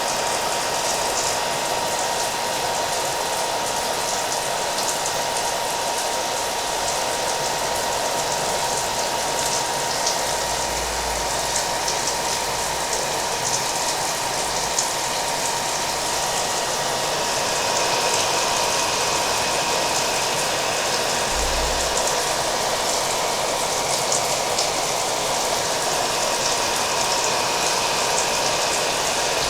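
Hair dryer running steadily under the patter of rain, an even hiss with a thin steady whine through it.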